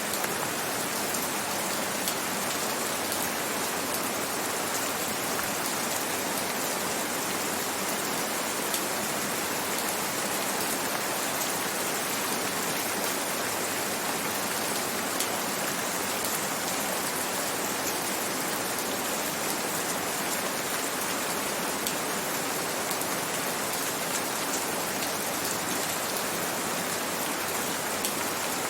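Gentle, steady rain: an even hiss of falling rain with scattered faint drop ticks.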